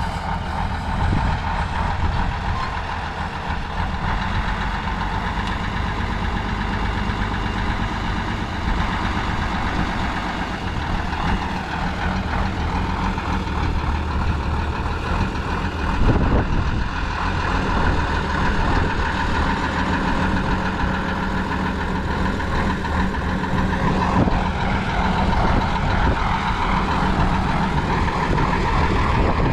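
Heavy off-road trial truck's engine running steadily.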